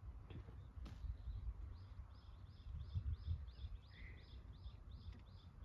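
A bird singing a steady series of short high notes, about three a second, starting about two seconds in, over a low uneven rumble of wind on the microphone.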